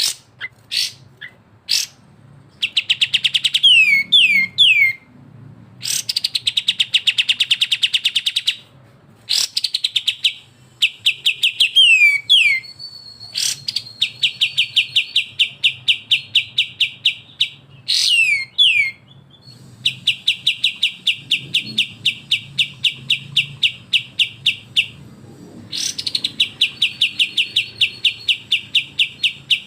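Bulbul song of the harsh rattling "besetan" type: long fast trains of sharp repeated notes, several a second, broken by short downward-sliding whistles and a few brief pauses.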